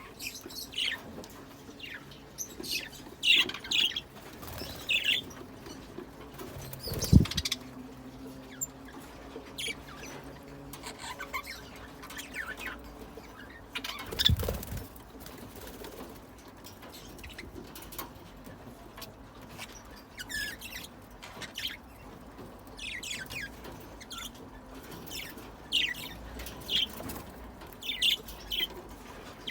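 Pet budgerigars chirping and chattering in short, scattered high calls. Two louder thuds come about a third and halfway through.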